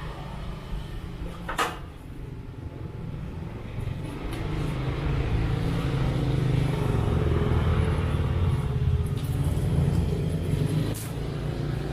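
Suzuki A100's two-stroke single-cylinder engine running, louder and steady from about four seconds in, with one sharp click about one and a half seconds in.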